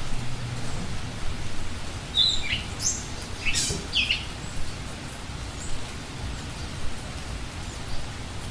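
A wild bird giving a quick burst of three or four short, high calls, some dropping in pitch, over a steady background hiss.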